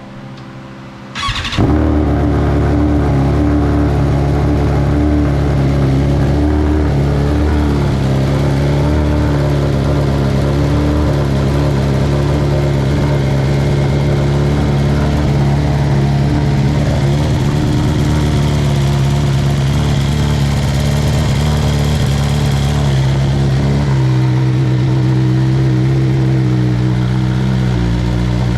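A 2021 BMW motorcycle fitted with a new aftermarket exhaust is started: a brief crank about a second in, then it catches and idles steadily. Its idle note shifts a little near the end.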